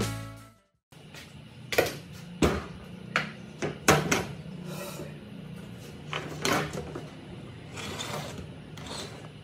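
Hand work on blower parts: irregular sharp clicks and knocks of tools and parts being handled, about a dozen in all, over a steady low hum.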